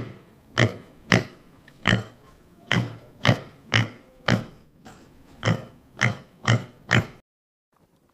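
A pig grunting repeatedly: about a dozen short, low grunts, roughly two a second, that cut off suddenly near the end.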